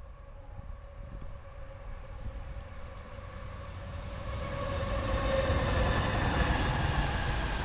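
A freight train hauling a long string of covered goods wagons approaches and passes close by. The rumble and rail noise grow steadily louder, swelling from about four seconds in, with a steady whine over them.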